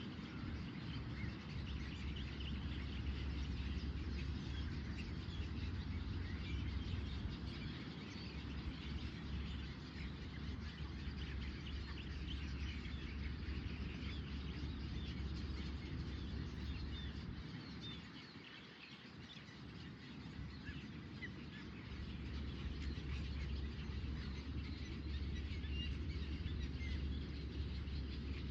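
Several birds chirping with short scattered calls, over a steady low rumble that fades for a few seconds about two-thirds of the way through.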